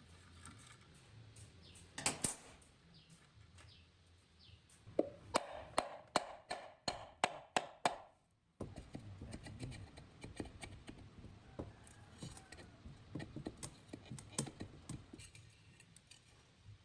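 Workshop tool work on metal parts: one sharp knock, then a quick run of about nine sharp taps at roughly three a second with a slight ring, followed by lighter clicking and handling clatter.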